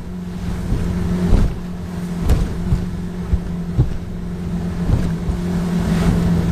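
Boat motor running steadily at about 2,500 RPM as a low drone, with several sharp knocks of the 16-foot aluminium V-bottom hull hitting rough waves.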